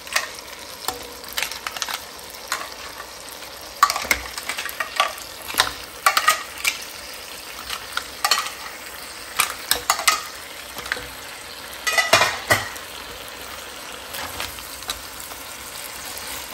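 Razor clams in their shells sizzling in a hot wok of garlic-butter sauce. Shells clatter against the pan, the plate and the utensils in irregular clicks as they are added and stirred.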